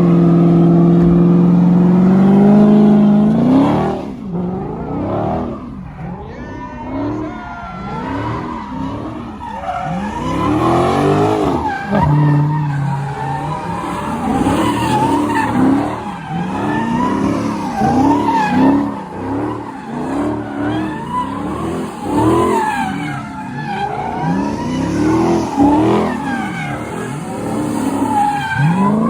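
A car sliding sideways with its tires squealing. The engine is held at high revs for about three seconds, then revs up and down over and over.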